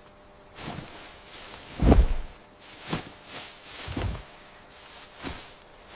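A series of irregular, heavy thumps, the loudest about two seconds in and another about four seconds in, over a faint steady hum.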